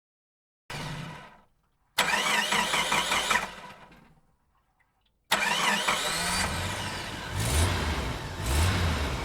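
Car engine starting: a brief noise, then a burst of cranking that dies away, then about five seconds in the engine catches and keeps running, revving up and down.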